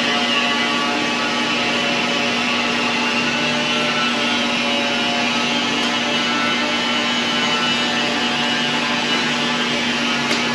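A machine running steadily: an even, loud mechanical noise with a constant hum.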